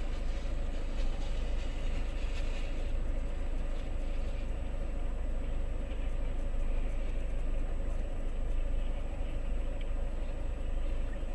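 Steady rumble of a moving vehicle, with engine and road noise, and a faint high whine held throughout.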